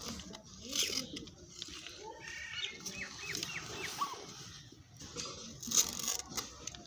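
A few short, high chirps like a small bird's in the middle of the clip, over low rustling, with a couple of sharp clicks.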